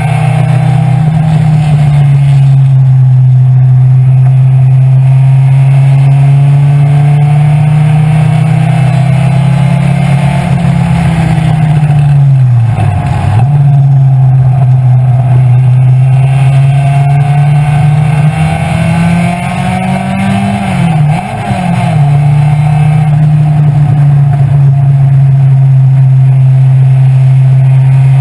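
Vintage race car's engine running hard at high revs, heard on board. The pitch holds mostly steady, dips briefly about 13 seconds in, and climbs then falls sharply about 21 seconds in, as with a gear change.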